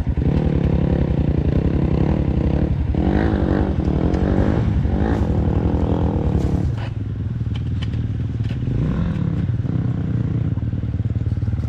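Four-stroke dirt bike engine revving up and down, then settling to a lower, steadier speed about seven seconds in.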